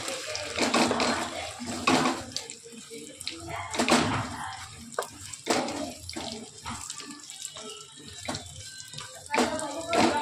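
Jaggery lumps frying in bubbling ghee in a metal kadhai, sizzling steadily, while a wooden spatula stirs them and scrapes against the pan at irregular moments.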